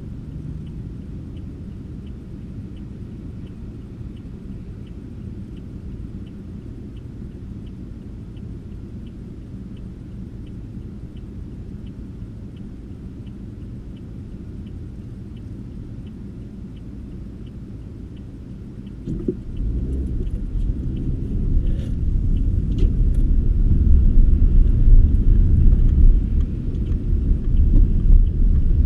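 Car driving, a steady low rumble of engine and road noise with a faint regular ticking; about two-thirds of the way in the rumble grows much louder and stays loud, with a few sharp clicks shortly after.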